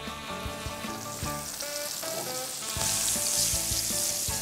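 Chopped onions frying in oil and butter in a skillet, with a little flour just stirred in for a roux. The sizzling is soft at first and swells louder about three seconds in.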